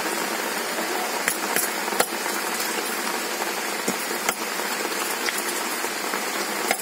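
Steady rain hiss, with a few sharp knocks as a large curved chopping blade cuts through pomfret against a concrete floor.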